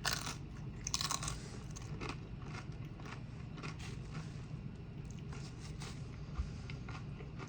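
Close-miked eating: crisp crunching bites of tortilla chips, loudest at the start and about a second in, followed by quieter crunchy chewing.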